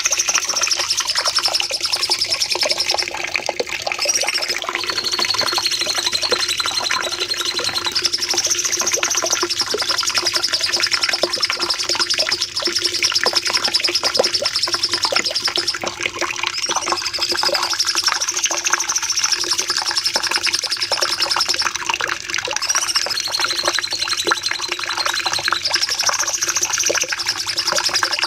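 Cucak cungkok singing a long, unbroken, rapid high trilling song, in phrases that rise and fall in pitch and recur again and again.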